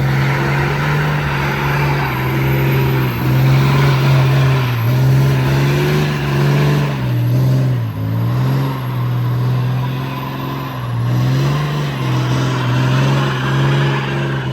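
Diesel pickup engine held at high revs, its pitch wavering up and down, over a steady hiss.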